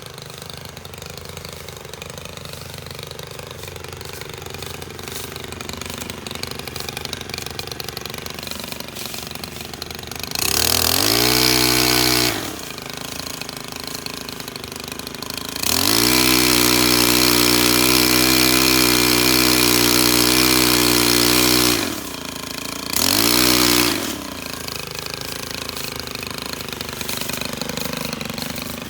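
STIHL KM 131R power head's small 4-MIX engine idling, then revved to full throttle three times: briefly about ten seconds in, for about six seconds from the middle, and briefly again near the end, falling back to idle after each.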